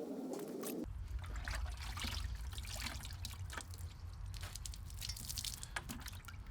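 Hand wet-sanding of a plastic headlight lens with a sanding block and sandpaper: irregular scratchy strokes through water, with water trickling and dripping off the lens. A steady low hum comes in about a second in.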